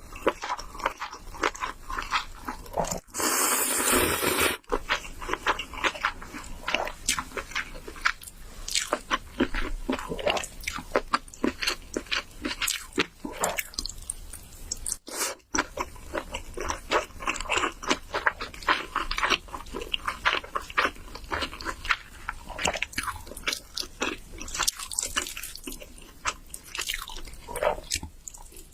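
Close-miked eating sounds: steady chewing and biting with many small wet clicks and crunches, and a loud noisy stretch a few seconds in. The sound breaks off abruptly twice.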